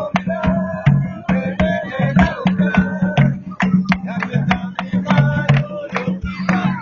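Candombe drums played in a fast rhythm, many sharp strokes over a steady deep drum tone, with a guitar playing along.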